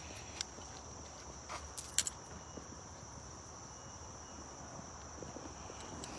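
Crickets chirring steadily in one high-pitched unbroken band, with a few light clicks about half a second in and around two seconds in.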